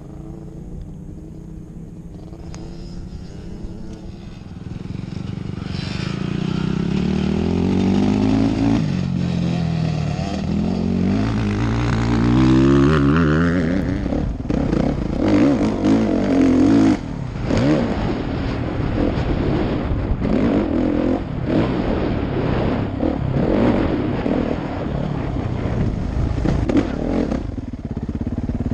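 A 2016 Kawasaki KX450F's single-cylinder four-stroke engine, ticking over quietly at first, then revving up and down repeatedly as the bike gets going. Through the second half it runs louder and rougher at speed.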